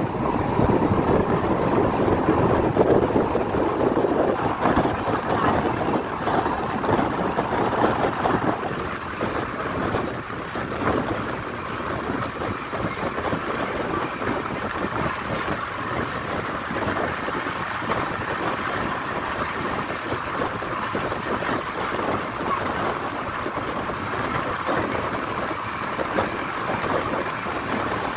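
Express passenger train running at speed, heard from an open coach window: a steady rush of wind and wheels on the rails with frequent small clicks and rattles. It is a little louder for the first eight seconds or so.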